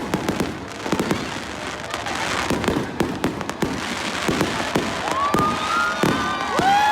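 Fireworks bursting and crackling in rapid, irregular bangs. Near the end, a held horn-like tone sounds twice over them.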